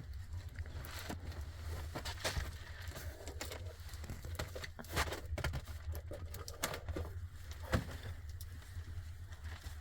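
Scattered small knocks and crinkly rustling of things being handled, irregular, with a sharper click about five seconds in and another near the end, over a steady low rumble.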